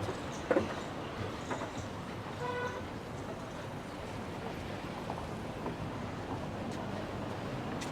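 Outdoor ambience with steady background noise, broken by a single short horn toot about two and a half seconds in. There is a brief knock about half a second in.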